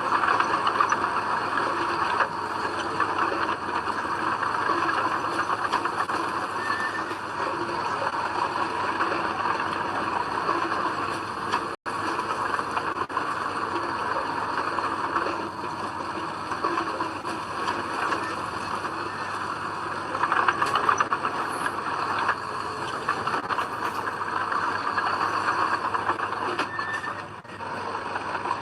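Komatsu D20P crawler bulldozer running as it works soil, a steady machine sound with a high, even whine. The sound drops out for an instant a little before the middle.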